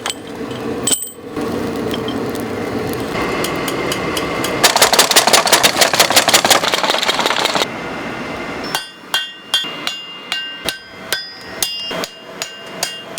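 Blacksmith forging steel: a steady rushing noise, then very rapid hammering for about three seconds, then separate hammer blows on the anvil, about two a second, each ringing with a metallic tone.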